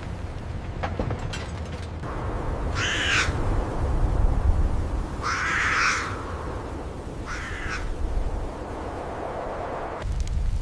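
A bird calling three times, each call under a second long and a couple of seconds apart, over a low steady rumble.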